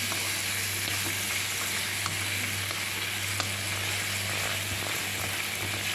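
Green chillies and chicken sizzling as they stir-fry in a nonstick pan, stirred with wooden chopsticks, with a few faint ticks. A steady low hum runs underneath.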